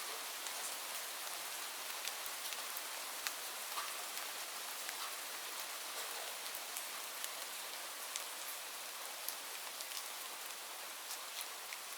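Steady rain with a constant hiss and many separate drops ticking on surfaces.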